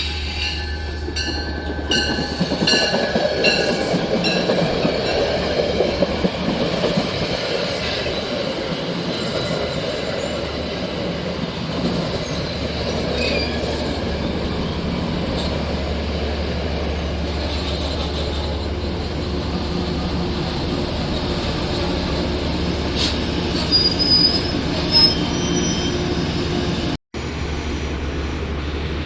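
A train rolling past on the rails, its wheels squealing in high steady tones at first and again briefly near the end, over a steady rumble.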